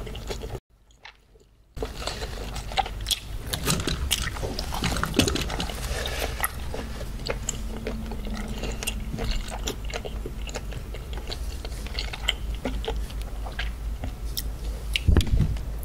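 Close-miked chewing of raw seafood with the mouth closed: a steady run of small wet clicks and smacks. It breaks off for about a second shortly after the start, and there is a louder low thump near the end.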